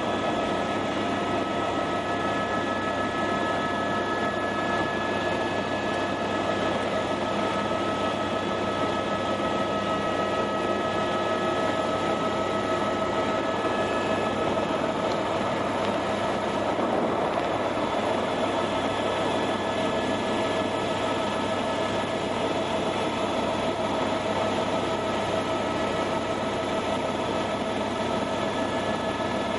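Helicopter running, heard from inside the cabin: a steady drone with a few high held tones over it.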